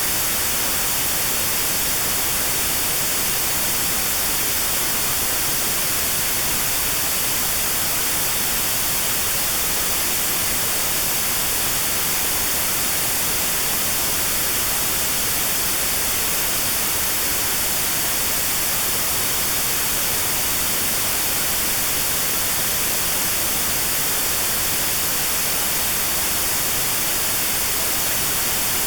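Steady white noise with a narrow band around 4 kHz cut out, leaving a faint gap in the hiss: notched sound therapy aimed at 4 kHz tinnitus.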